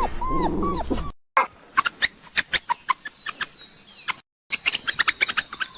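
A dog whimpering with short falling whines, which cuts off about a second in. After a brief gap come a run of sharp clicks and faint high, thin chirps.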